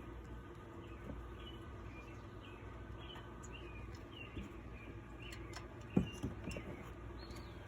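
Small birds chirping repeatedly in short, high calls over a faint steady hum, with a sharp knock about six seconds in.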